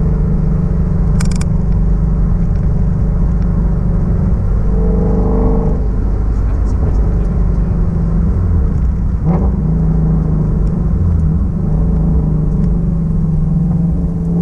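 Shelby GT350's 5.2-litre flat-plane-crank V8 and exhaust cruising at low, steady revs, with a brief swell in the engine note about five seconds in and a quick rise in pitch a little after nine seconds.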